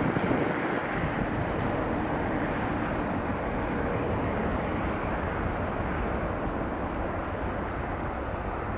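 Jet engines of an Airbus A380 taxiing, a steady rumble with a broad hiss.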